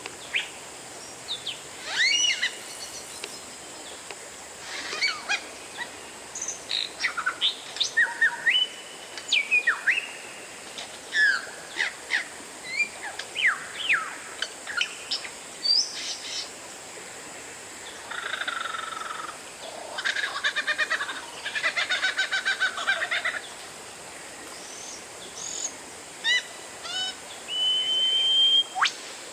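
Oriental magpie-robin (kacer) singing a varied song of loud whistled notes, sharp chirps and quick sweeps. Midway come a few rapid, rattling trills, and near the end a held whistle.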